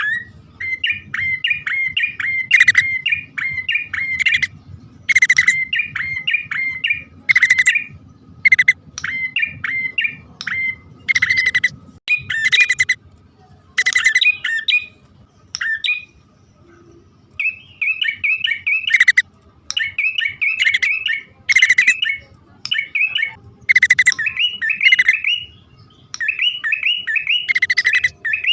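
Prinia (prenjak) male and female calls used as a bird-trapping lure: rapid chattering phrases of high chirped notes, repeated in bursts about a second long with short gaps between, over a faint low hum.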